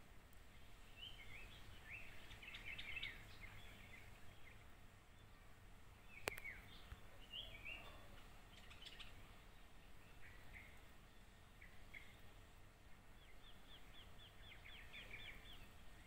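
A small songbird chirping faintly in short, high twittering phrases, ending in a quick run of about a dozen repeated notes near the end. There is one sharp click about six seconds in.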